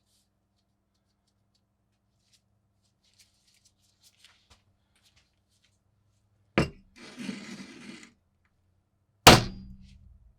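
Two hard knocks about three seconds apart, probably metal on a workbench as the rusty tool is worked on. Between them comes about a second of rough scraping noise, and the second knock is the louder and rings briefly as it fades. A few faint light clicks come before.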